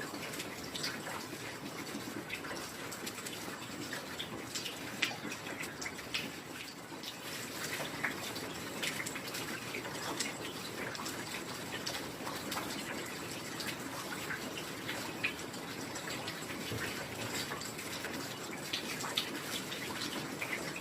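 Heavy rain falling steadily, a constant wash of noise with many scattered sharp drop impacts standing out from it.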